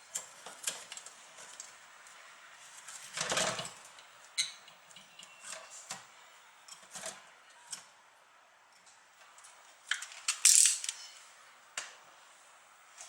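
Small metal parts and tools being handled while a computer power supply is worked on: scattered clicks, taps and light metallic clinks, with a longer scraping rustle about three seconds in and the loudest clatter about ten seconds in.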